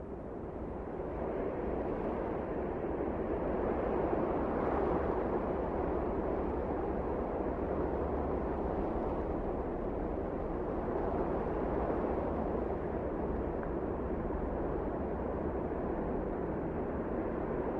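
Wind blowing steadily, swelling in gusts over the first few seconds and then holding with slight rises and falls.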